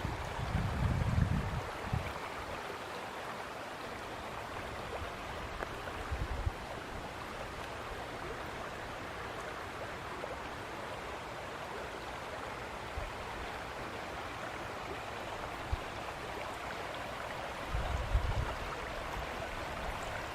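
Steady rush of the Flathead River's flowing water. Low wind buffeting on the microphone comes in the first two seconds and again near the end.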